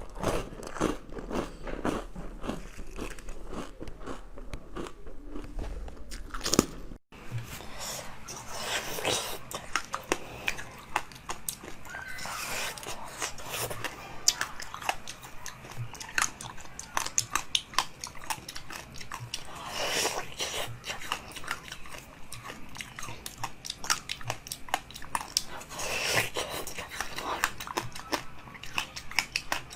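Close-miked ASMR eating: biting and chewing jelly and frozen sweets or fruit, a dense run of sharp crunches and clicks. The sound drops out briefly about seven seconds in.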